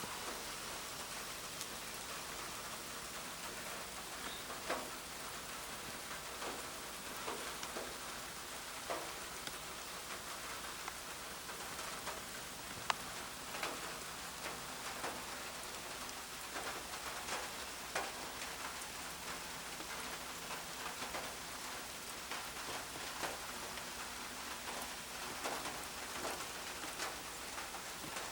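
Rain falling steadily, with scattered individual drops ticking sharply close by.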